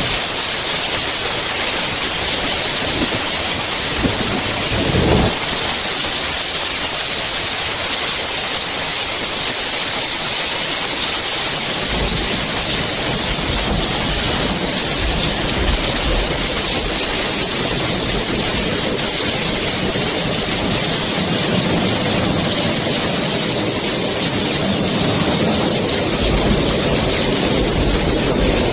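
Steady heavy rain, a dense even hiss, with a low rumble underneath from about halfway through.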